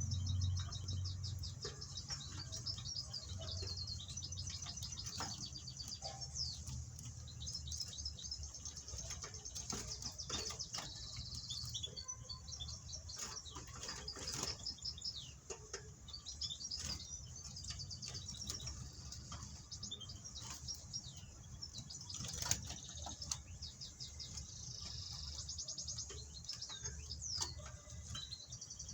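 Young cage birds chirping rapidly and without pause in high twittering notes, with a few sharp clicks or wing flutters breaking in now and then.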